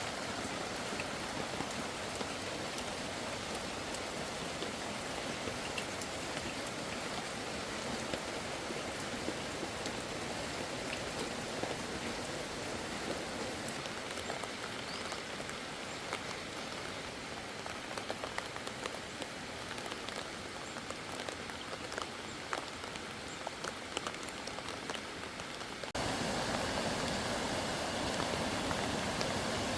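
Steady rain falling on a surface: an even hiss with scattered faint drop ticks. It turns slightly louder about 26 seconds in.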